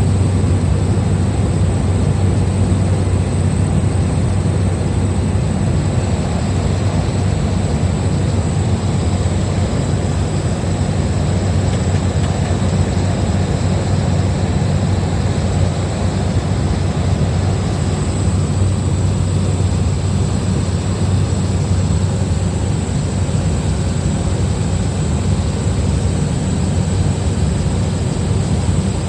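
Small propeller plane's engine and airflow droning steadily inside the cabin: a loud, even low hum with a thin high whine over it.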